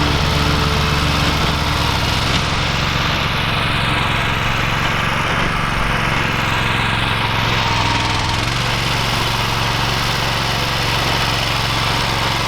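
BCS two-wheel walk-behind tractor's engine running steadily under load while it works the sod-covered garden ground; the engine note shifts slightly about eight seconds in.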